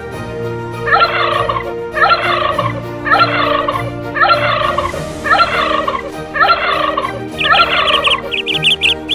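A bird's rattling call, repeated seven times about once a second, then quicker chattering notes near the end.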